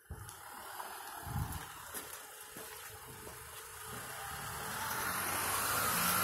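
A vehicle passing on the street: a steady hiss of engine and tyre noise that swells to its loudest near the end.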